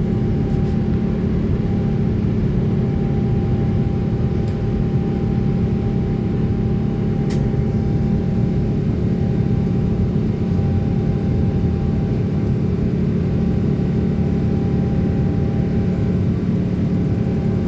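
Steady drone of an airliner's jet engines heard from inside the passenger cabin, a low rumble with a thin steady whine above it and a few faint ticks.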